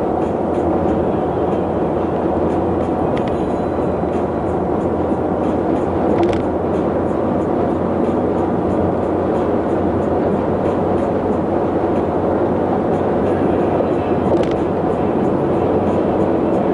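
Steady rumble of a vehicle travelling along a road: engine, tyre and wind noise at an even level.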